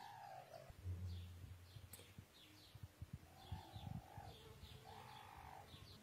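Faint bird chirps, short falling chirps repeating several times a second, with a few soft, lower, drawn-out calls. A few dull low thumps come about a second in and again around three to four seconds in.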